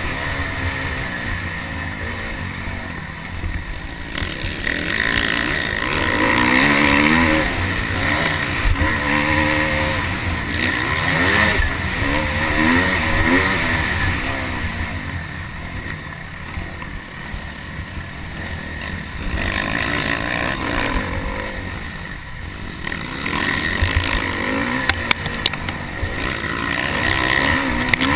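Motocross bike engine revving up and backing off again and again, its pitch rising and falling, over a heavy low wind rumble on the microphone, with a few sharp knocks near the end.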